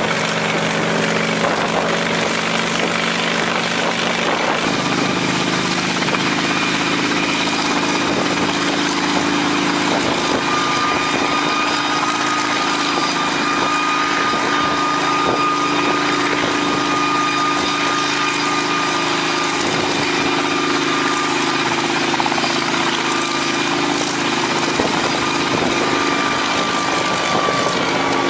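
Russian helicopter's engines running up during start-up: a loud, steady mechanical sound whose pitch steps up about five seconds in, with a steady high whine joining about ten seconds in.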